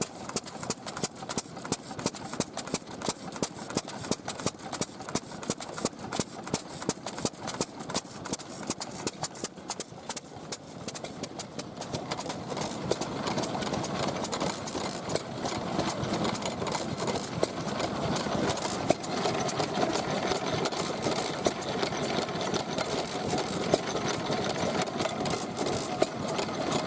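Vintage stationary engine running with a sharp, regular exhaust beat several times a second. About twelve seconds in, a louder, steadier engine sound builds up underneath.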